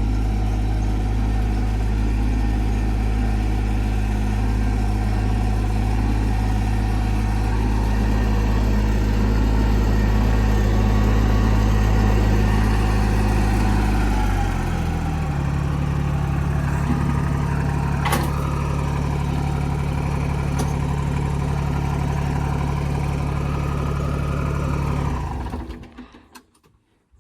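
TYM 224 compact tractor's diesel engine running steadily. About halfway through its speed steps up to a higher note, and near the end the sound stops abruptly.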